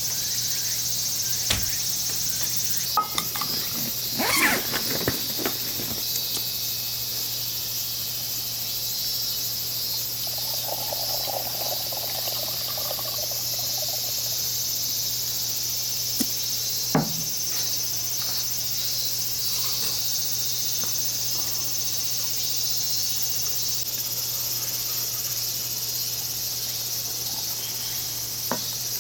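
Insects chirring steadily and high-pitched in summer woods, with a few sharp knocks and clicks, a cluster about four to five seconds in and one more near the middle.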